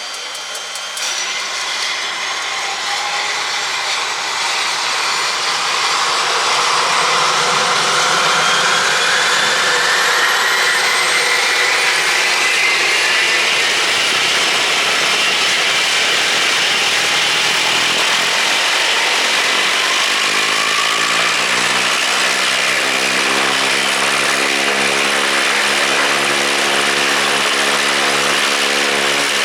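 Propeller aircraft engine running, growing louder over the first six seconds and then holding steady, with a whine that rises in pitch and, in the last third, a steady low engine beat.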